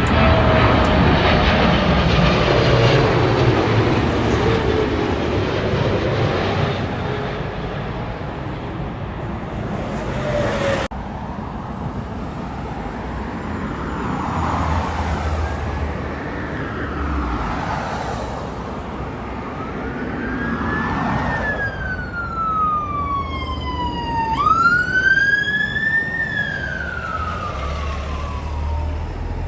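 Jet airliner passing close overhead on landing approach, its engine noise loud with a falling whine, cutting off abruptly about a third of the way in. In the second half an emergency-vehicle siren wails, its pitch slowly rising and falling.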